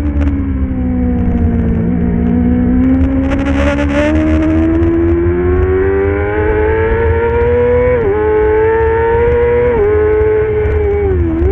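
Racing motorcycle engine under hard acceleration, its pitch climbing steadily for several seconds, with two quick upshifts about eight and ten seconds in and the throttle closing briefly near the end. A steady low rumble runs underneath, and there is a brief hiss about four seconds in.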